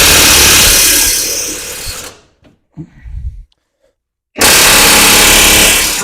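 Handheld power tool driving bolts in two runs. The first fades out about two seconds in, and after a short pause with a few small knocks, the second starts about four and a half seconds in.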